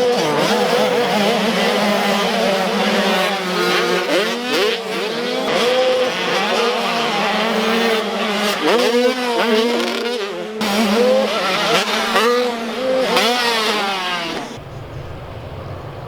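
Several motocross dirt bikes running on the track, their engines revving up and falling away again and again as the riders twist the throttle and shift. Near the end the engine sound drops to a quieter, steadier background.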